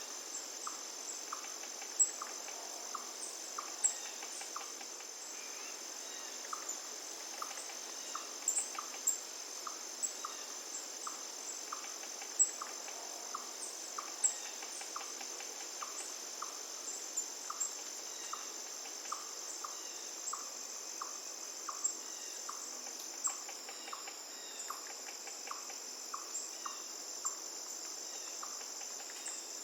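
Crickets trilling steadily on a high note, with a short chirp repeating about twice a second over a faint wash of flowing river water.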